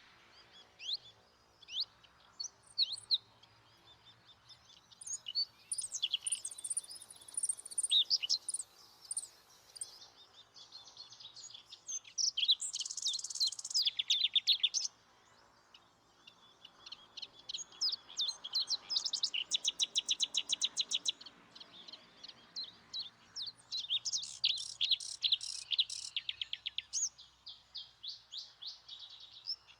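Small songbirds singing and calling: short high chirps and quick trilled runs of notes, several birds overlapping, coming in bouts with brief lulls between.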